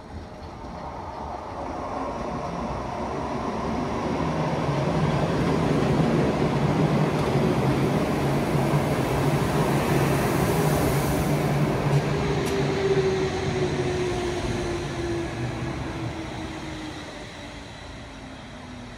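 Red electric metre-gauge railcar passing close by. Its running noise and motor hum swell as it nears and then fade, with a whine that falls steadily in pitch over the last several seconds and a single click about twelve seconds in.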